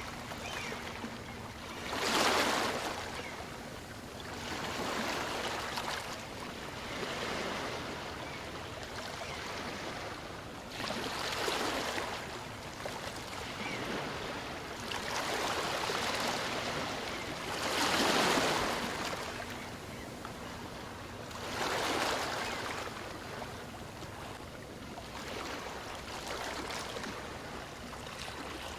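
Gentle waves of a calm sea breaking on a beach and washing back. The wash swells and fades every few seconds, with the loudest surges a few seconds apart.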